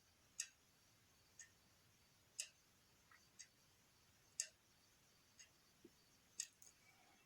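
A clock ticking faintly once a second, every other tick louder, over near silence.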